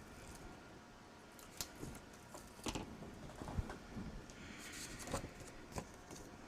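Quiet paper-crafting handling sounds: scattered light taps and clicks, with a longer paper rustle around five seconds in.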